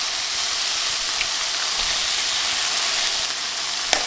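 Chopped tomatoes frying in a pan, a steady sizzle. Near the end a single sharp crack as an egg is broken into the pan.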